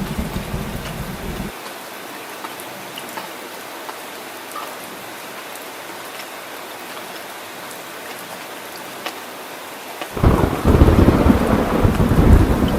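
Heavy rain falling steadily, with scattered sharp drops ticking through the hiss. A thunder rumble stops about a second and a half in, and a louder rumble of thunder comes in suddenly near the end.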